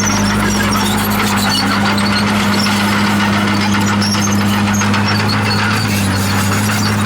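Komatsu D51PX bulldozer's diesel engine running with a steady drone, while its steel tracks give off frequent short, high squeaks.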